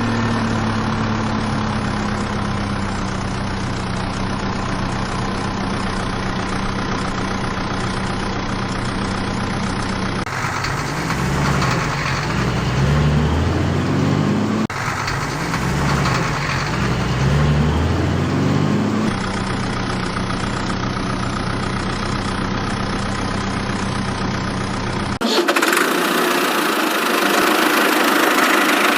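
Diesel engine of a construction machine running steadily, then revving up and down over and over through the middle as it works under load, then settling back to a steady run. About four seconds before the end the sound cuts abruptly to a different, brighter recording of machinery.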